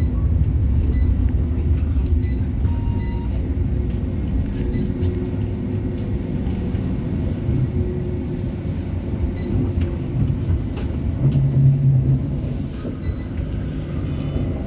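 CAF Urbos 3 tram running between stops, heard from inside the passenger saloon: a steady low rumble of wheels on rail and traction motor hum, with the hum briefly stronger about two-thirds of the way through.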